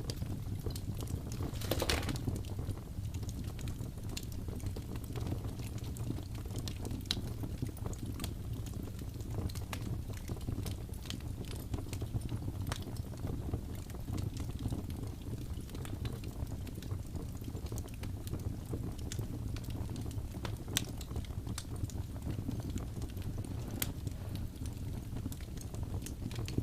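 Wood fire burning in a fireplace: a steady low rumble from the flames with scattered sharp crackles and pops, and a denser burst of crackling about two seconds in.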